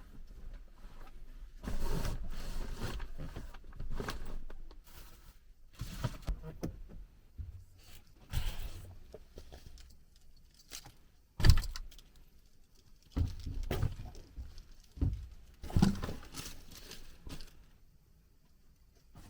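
Irregular handling noises: rustling and clattering with scattered knocks, the loudest a sharp knock about halfway through.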